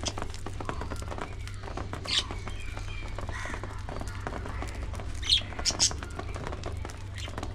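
A colony of budgerigars chattering continuously, with a few louder, sharp squawks about two seconds in and again around five and a half seconds, over a steady low hum.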